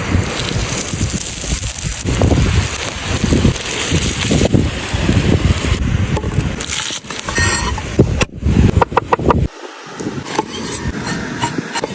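Wind buffeting the microphone, then a quick run of clicks and clinks of small hard objects being handled. About nine and a half seconds in, the low rumble cuts off suddenly and scattered clinks go on.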